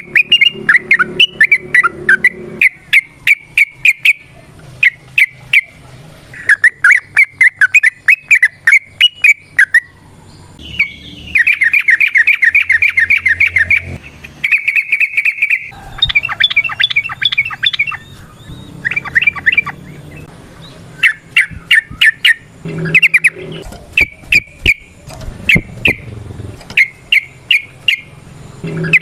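Yellow-vented bulbul calling in bursts of quick, sharp chattering notes, with a couple of longer, denser rattling runs about halfway through.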